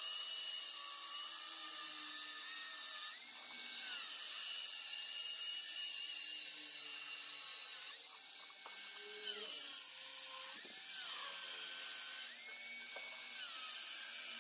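A small high-speed power tool running, with a thin, high-pitched whine. Its pitch dips and recovers several times as it is loaded.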